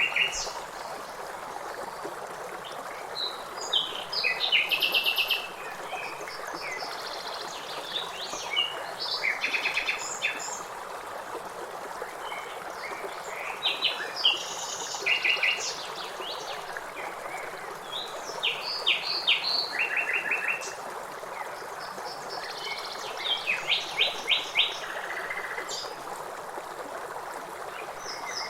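Songbirds singing in short, fast trilled phrases that recur every few seconds, over the steady rush of river water.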